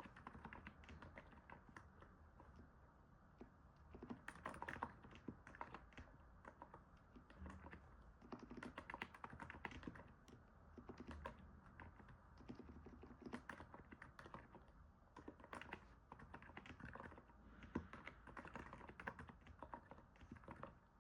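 Typing on a NIZ 68 Pro capacitive keyboard: quiet, rapid keystrokes in runs with brief lulls between them. The soft key sound is likened to stepping on snow.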